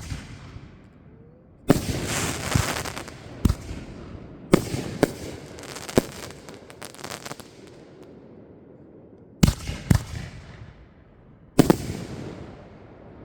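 Fireworks bursting overhead: a series of sharp bangs in irregular clusters, several followed by a crackling fizz that dies away over a second or two.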